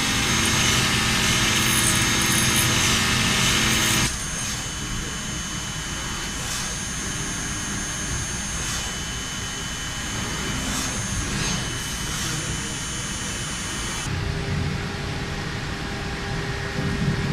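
Steady industrial machine noise with several steady whining tones, changing abruptly about four seconds in and again near the end, with a few faint knocks in the middle stretch.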